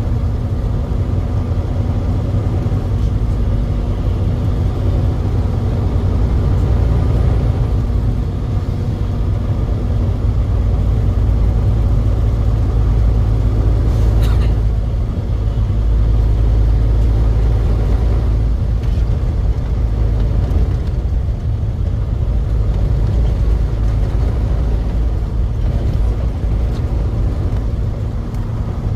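Truck engine and road noise: a steady low rumble, with one short click about fourteen seconds in.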